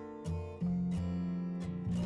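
Background music: strummed acoustic guitar, with a chord about half a second in that rings on.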